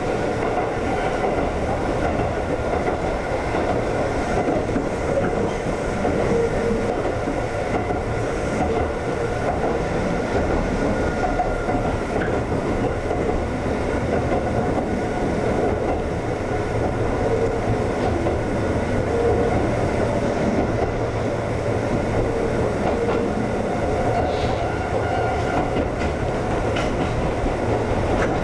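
Konan Railway 7000-series electric train (ex-Tokyu 7000) running along the line, heard from on board: a steady rumble of wheels on rail with a few faint steady tones over it.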